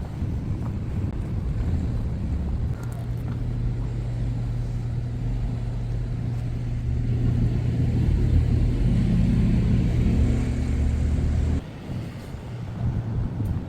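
Motor vehicle engine running close by: a steady low hum that grows louder in the second half and cuts off suddenly near the end.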